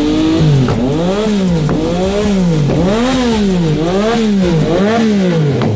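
Sport motorcycle engine revving up and down over and over, its pitch rising and falling about once a second.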